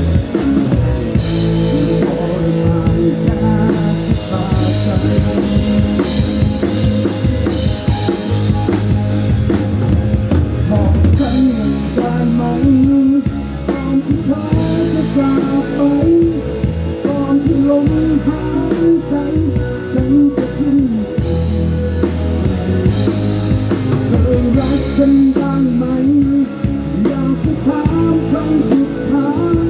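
Rock band playing live: drum kit keeping a steady beat under bass and electric guitar.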